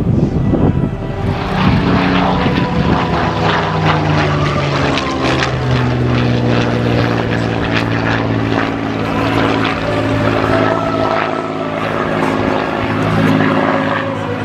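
Piston-engined propeller aircraft droning loudly, their engine pitch shifting up and down as they fly by.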